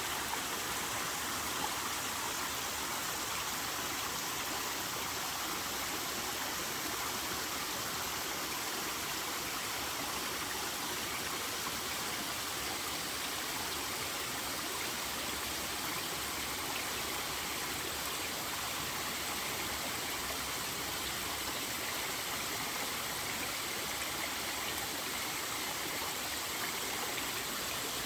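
Waterfall at a somewhat low flow, its water falling and splashing in a steady, unbroken rush.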